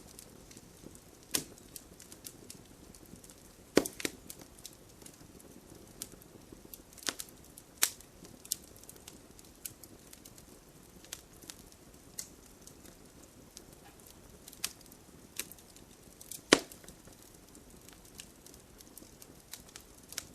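Wood fire burning logs: a low steady hiss with scattered sharp crackles and pops, the loudest about 4, 8 and 16 seconds in.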